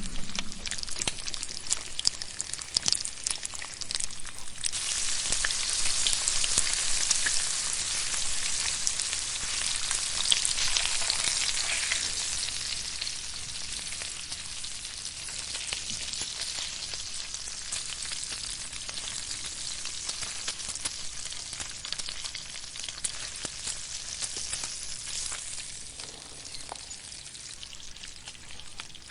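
Something sizzling over a campfire, a dense hiss full of small crackles. It starts suddenly, is loudest for the first dozen seconds, then slowly eases off.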